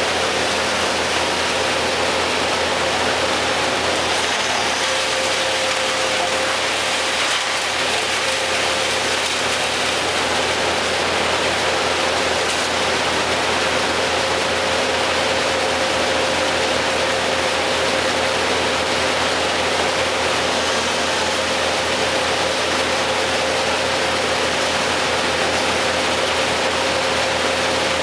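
An engine running steadily at an even speed, with a steady whine that comes in a few seconds in.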